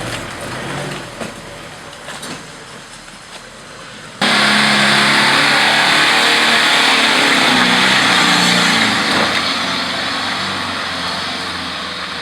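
Off-road 4x4 engine running under load, fairly quiet at first; about four seconds in the sound jumps abruptly to a much louder engine revving hard over a rush of noise, easing off slightly near the end.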